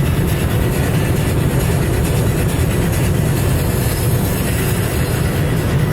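Car driving at very high speed, past 180, with a steady, deep rumble of engine, tyres and wind.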